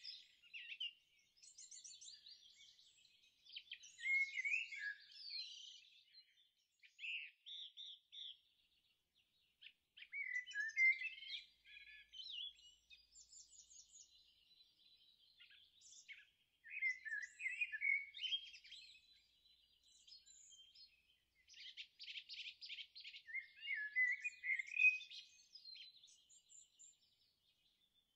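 Songbirds singing: bursts of high chirps, warbles and short rapid trills, several overlapping phrases with brief pauses between them, and no waves or music underneath.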